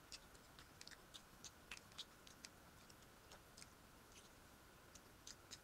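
Faint, irregular wet clicks and smacks of a person chewing food with her mouth closed.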